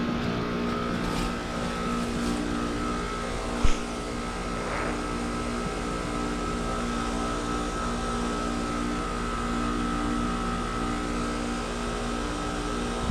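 Carrier Comfort 15 heat pump outdoor unit running through a defrost cycle: a steady compressor hum with a thin whine above it. A single short knock sounds a little under four seconds in.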